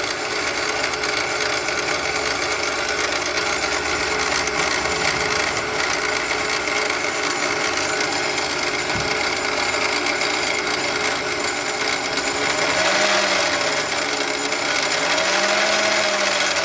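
Unidentified mechanical noise from a 2006 Toyota Sienna while driving, steady throughout, with a tone that rises and falls twice near the end. It is the noise that goes away once the engine has been off for a minute.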